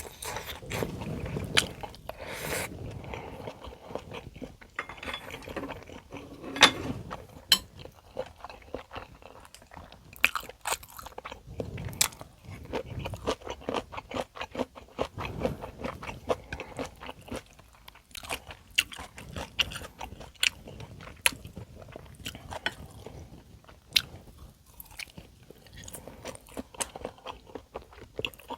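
Close-miked eating sounds: a person chewing and crunching through mouthfuls of a Korean home meal of rice, kimchi stew and side dishes, with many short sharp clicks throughout.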